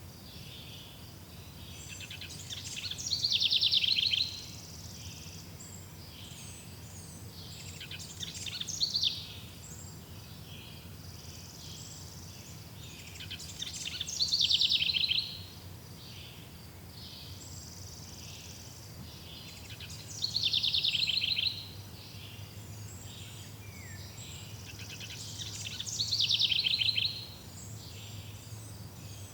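Songbird singing in a forest, repeating a short, fast-trilled high song phrase about every six seconds, five times, over a steady faint low hum.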